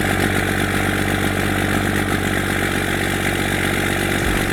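Cummins diesel truck engine idling steadily, with a fast, even clatter.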